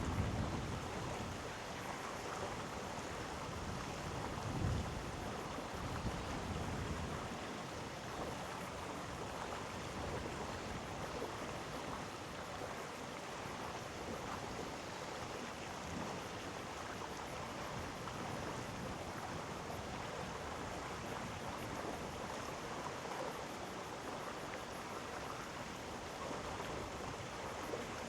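Mountain stream flowing over rocks: a steady, even rushing of water. Some low rumble in the first several seconds, likely wind on the microphone, eases off after that.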